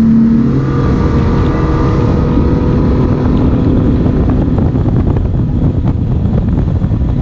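A boat's outboard engine running steadily while the boat is under way, its pitch shifting slightly, with wind buffeting the microphone.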